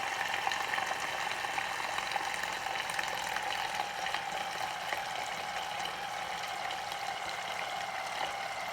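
Vortex generator's motor whining steadily while the spinner churns water in the beaker into a vortex, with a hissing swirl of water over it. The machine is tipped to one side and the vortex is slowing down.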